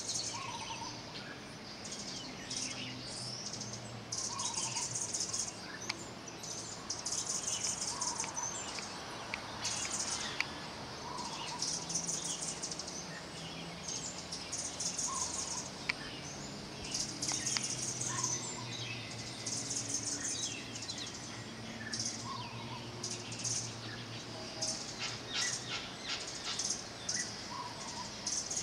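Small birds chirping and twittering, with a short call repeated every couple of seconds, over a steady rushing background.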